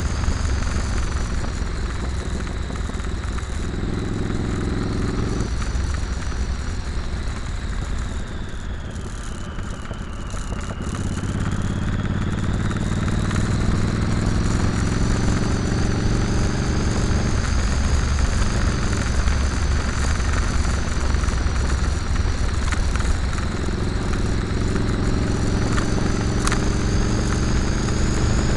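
Motorcycle engine running on the road with wind rushing past. The engine note eases off and dips about a third of the way in, then climbs again as the bike accelerates, with a few breaks in the pitch that sound like gear changes.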